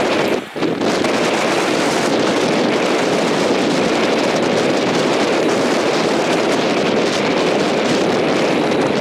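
Strong wind buffeting the microphone near a tornado: a loud, steady rush with a brief drop about half a second in.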